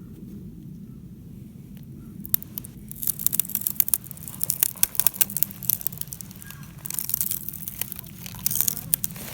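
Dry wood being handled and pulled about at a beehive: a run of crackles, snaps and scrapes starting about two seconds in and coming in clusters, over a steady low hum.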